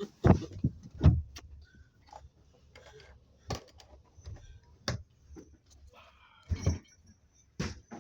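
Irregular knocks, thumps and light rattling aboard a boat rolling in choppy water, a sharp knock every second or so, with a low rumble under them.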